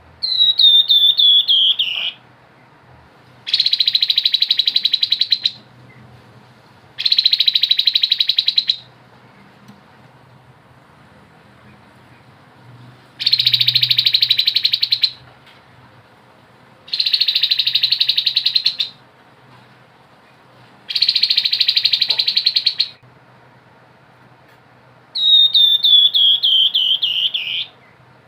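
Grey-headed babbler singing in loud phrases of about two seconds, separated by pauses of a few seconds. The first and last phrases are runs of quick notes that fall in pitch. The five in between are rapid buzzing trills held at one high pitch.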